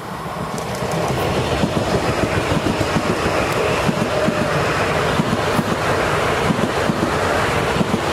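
Metro-North M8 electric commuter train passing close at speed: a steady rush of wheels on rail with rapid clickety-clack over the rail joints, growing louder about a second in as the cars arrive.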